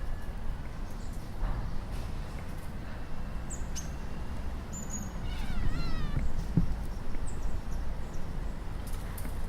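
Cat chattering at prey: a quick run of about six clipped, bird-like chirps a little past the middle, the chatter a hunting cat makes at birds.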